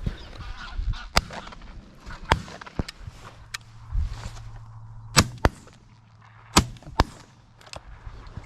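A string of shotgun shots fired at geese, some faint and some loud, the loudest in two quick pairs about five and about six and a half seconds in.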